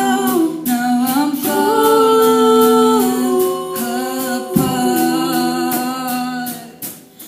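Three girls' voices singing a cappella, holding long wordless notes in harmony, and fading out near the end.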